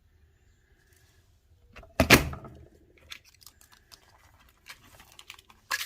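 A craft paper punch pressed down with one loud clunk about two seconds in, punching a bird shape out of cardstock. It is followed by light clicks and paper handling, with another sharp click near the end.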